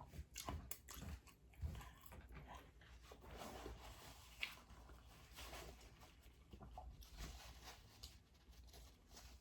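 Faint close-up eating sounds: soft chewing, wet mouth smacks and small clicks, coming irregularly as a person eats seafood boil.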